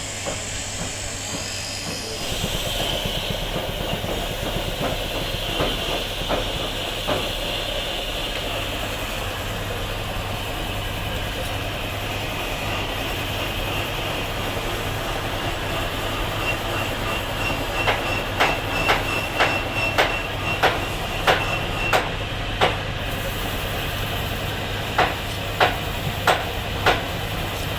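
A machine with a steady electric hum runs throughout. About two-thirds of the way in, a run of sharp, evenly spaced knocks comes at roughly one and a half a second, and a few more follow near the end.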